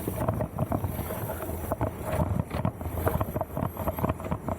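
Mountain bike clattering and rattling over rough trail, with many irregular knocks, and wind buffeting the microphone.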